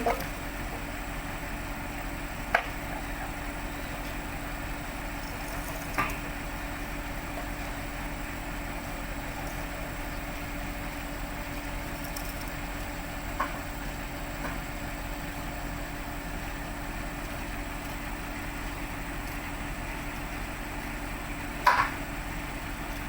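Heavy-equipment engine idling steadily, with a few short, sharp knocks scattered through it.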